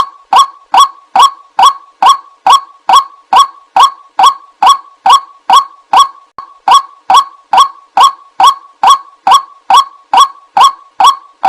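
White-breasted waterhen calls: one short, harsh 'wak' note repeated steadily about twice a second, as played in a looped bird-lure recording.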